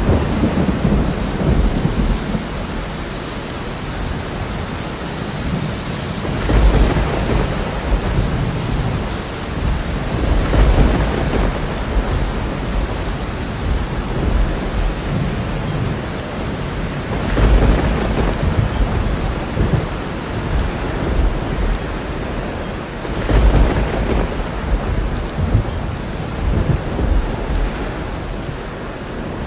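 Thunderstorm: steady heavy rain with rolling thunder, the rumbles swelling four times, about 7, 11, 18 and 24 seconds in.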